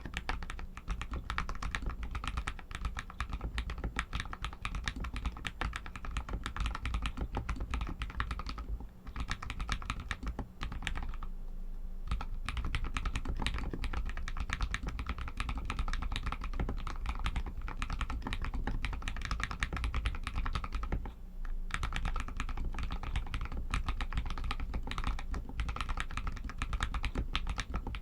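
Royal Kludge RK61 mechanical keyboard with Outemu Red linear switches, typed on in a fast, continuous stream of keystrokes with a few short pauses.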